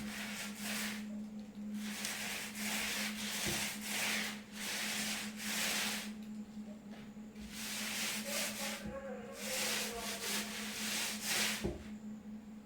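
Paint roller rolling paint onto a wall in repeated rubbing strokes with short pauses between them, over a steady low electrical hum.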